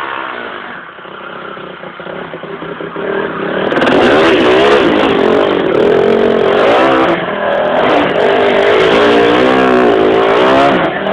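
Dirt bike engine revving as it rides through deep powder snow. It grows much louder about four seconds in, then rises and falls in pitch again and again as the throttle is worked.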